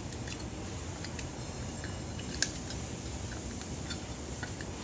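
Light clicks and taps of small metal parts being handled, with one sharp click about two and a half seconds in, over a steady low hum.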